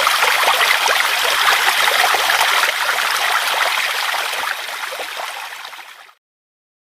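Stream or river water rushing and gurgling steadily, fading out over the last couple of seconds and then cutting to silence about six seconds in.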